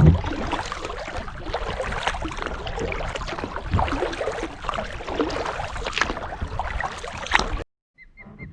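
Water splashing and lapping around a kayak as it is paddled, with many short splashes over a low rumble. It cuts off suddenly near the end, and a bird's quick, evenly repeated chirps start just after.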